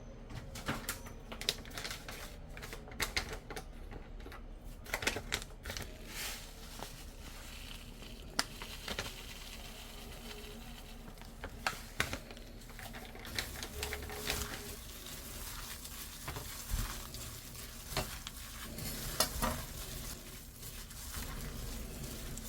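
Seasoned young radish greens being stirred and tossed in a bowl: a rustling hiss with irregular clicks and knocks of utensils against the dish.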